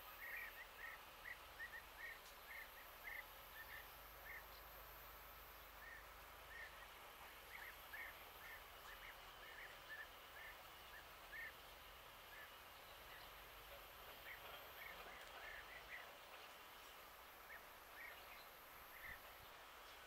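A bird chirping faintly in quick runs of short, repeated calls, several a second, with brief pauses between the runs.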